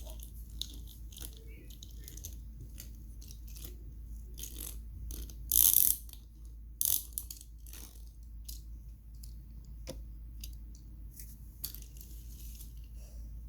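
Toy cars and trucks being handled: scattered small clicks, taps and scrapes of plastic, with a louder, half-second rustle about halfway through and a shorter one just after, over a steady low hum.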